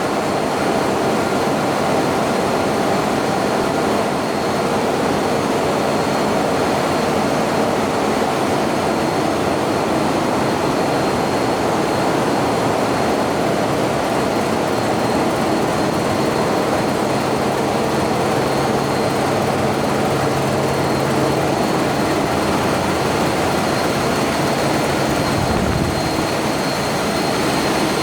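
Tugboat engine room with the diesel engines running steadily: a loud, even drone that stays constant throughout, with a faint high steady whine over it.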